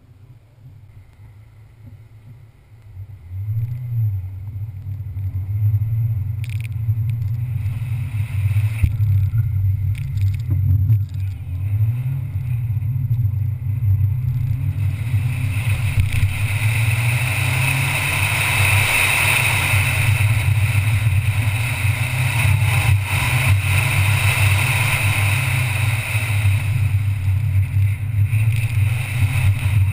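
Ford Fiesta ST's turbocharged 1.6-litre four-cylinder engine being driven hard around an autocross course, its pitch rising and falling with throttle and gear changes. It is quiet for the first few seconds and comes in loud about three seconds in, with a hiss growing on top from about halfway.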